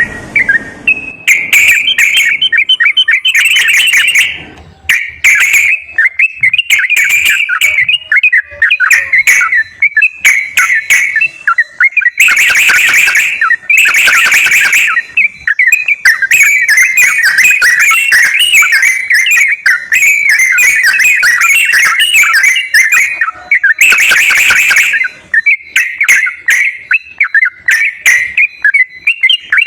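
Yellow-vented bulbul (trucukan) song: a continuous run of quick, bubbly chattering phrases, broken three times by louder, harsher noisy bursts lasting one to three seconds.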